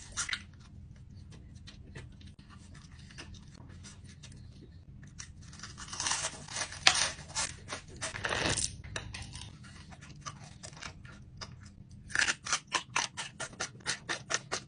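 Close-miked crunchy chewing: quick crisp crunches at about four or five a second, fading to faint clicks for a few seconds, then a louder crackling stretch about six to eight and a half seconds in, and fast crunching again near the end.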